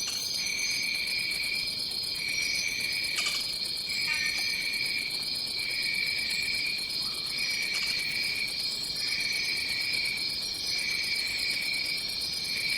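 Tropical rainforest insect chorus: a steady high-pitched drone, with a lower call that pulses on and off about every second and a half and occasional higher chirps over it.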